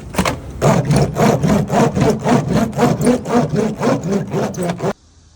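Rhythmic back-and-forth rubbing strokes, about four a second, with a slight squeak in each, typical of a hand roller pressing sound-deadening damping mats onto car body panels. The sound cuts off suddenly near the end.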